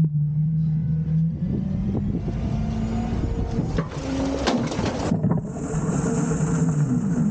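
Autocar garbage truck with a Heil Half/Pack body running, its engine note rising and falling. A few sharp clicks come about four seconds in, and a steady high hiss starts about halfway through.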